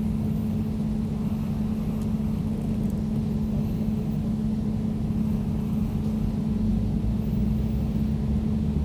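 Air conditioner running: a steady, unchanging hum with a strong low tone and a rumble beneath it.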